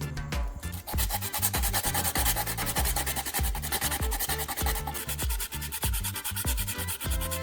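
Fast, rasping abrasive sanding, a dense rapid scratching that starts about a second in and runs on, over background music with a steady beat.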